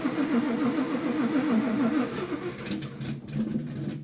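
Whipple-supercharged, cammed Ford Coyote 5.0 V8 running rough, its idle rising and falling several times a second, then stumbling and popping for the last couple of seconds before it dies suddenly near the end. The new engine keeps stalling after a few seconds of running, which the owner wonders is a fuel pump problem.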